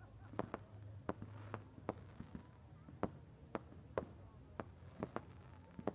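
A run of sharp cracks and pops at irregular intervals, about two a second.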